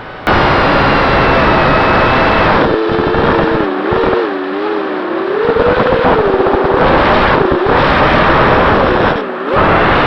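Small drone's electric motors and propellers whining under heavy wind rush. The pitch wavers up and down as the throttle changes. The sound cuts in suddenly just after the start and drops out briefly a few times.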